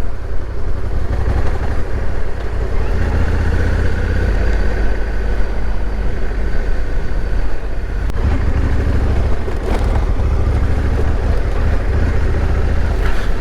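Honda motorcycle's engine running steadily while riding, heard as a loud, continuous low rumble with road noise.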